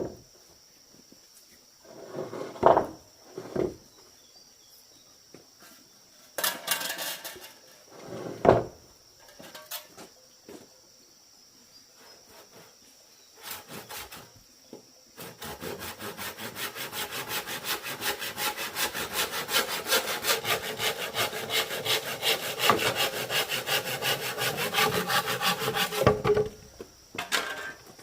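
Bamboo being sawn by hand: about ten seconds of quick, even back-and-forth saw strokes, starting a little past the middle and stopping near the end, after a few separate knocks of bamboo being handled.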